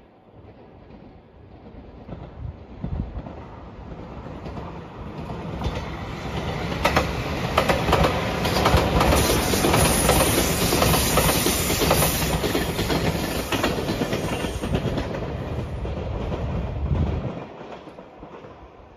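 JR Shikoku 8000 series electric express train passing by. It builds over several seconds and is loudest in the middle, with the clickety-clack of wheels over rail joints, then fades away near the end.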